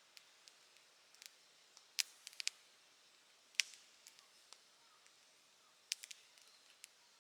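Campfire crackling: scattered sharp pops and snaps at uneven intervals over a faint hiss, with a small cluster about two seconds in and the loudest pop a little later.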